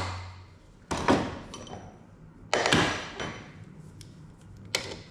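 Hand tools clanking on the bolts of an excavator's hydraulic tank lid as they are loosened with a 14 mm wrench: three sharp metallic knocks, about one, two and a half, and nearly five seconds in, the middle one trailing into a short rattle.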